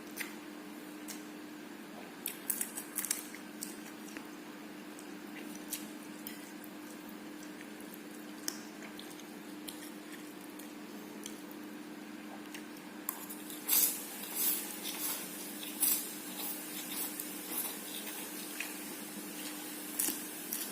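Someone eating fried instant noodles: wet chewing and slurping, with scattered sharp clicks of cutlery on the plate and a louder run of bites about two thirds of the way through, over a steady low hum.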